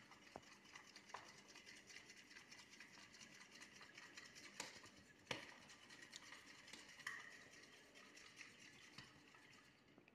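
Raw eggs being beaten with a utensil in a bowl: quick, even strokes of stirring and tapping, with a few louder clinks against the bowl midway.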